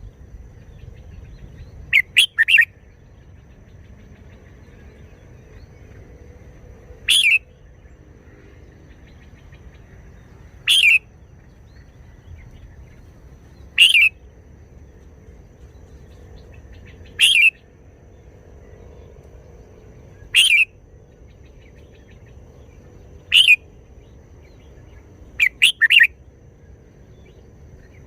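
Red-whiskered bulbul singing short, loud phrases about every three seconds, some coming in quick pairs or triplets.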